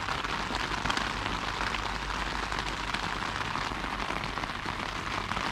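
Steady rain falling on the tent's flysheet, heard from inside the tent as an even pattering hiss.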